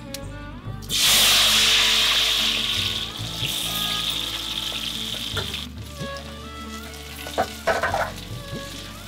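Chopped shallots hitting a hot pot and sizzling loudly, starting suddenly about a second in. The sizzle eases off about halfway through as they are stirred, with a few short scrapes of the spatula near the end.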